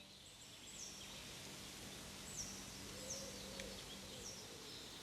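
Quiet outdoor ambience with a bird repeating a short, high call that dips at its end, about six times.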